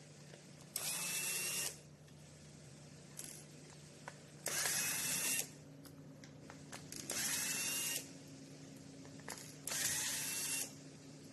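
Small power screwdriver running in four short bursts of about a second each, with a faint whine inside each burst, typical of driving screws while swapping the motor of an RC truck.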